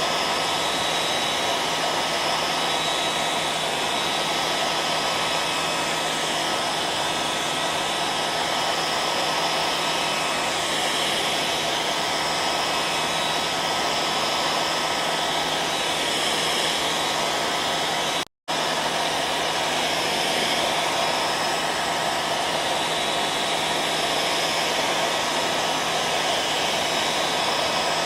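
Hair dryer running steadily, a continuous airflow rush with a faint motor hum. About 18 seconds in the sound cuts out for a split second, then carries on unchanged.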